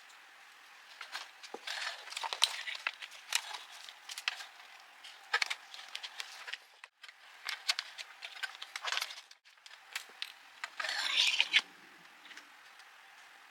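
Hand crafting noises: scattered clicks, taps and scrapes of small parts being handled and worked, with a longer scraping or rustling stretch about eleven seconds in.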